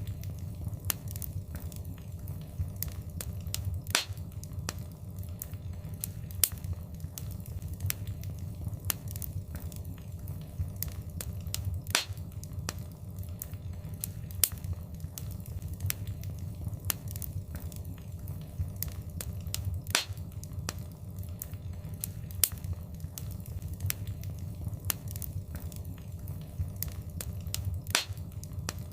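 Fireplace fire crackling: frequent sharp pops and snaps over a steady low rumble, with a louder pop about every eight seconds.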